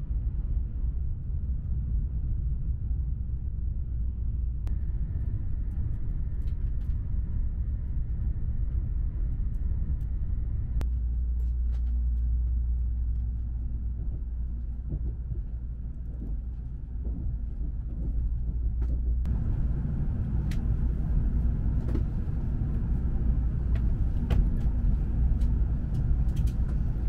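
Steady low rumble of a Tokaido Shinkansen Nozomi bullet train running, heard inside the passenger cabin, with a few faint clicks. The rumble changes abruptly three times, about five, eleven and nineteen seconds in.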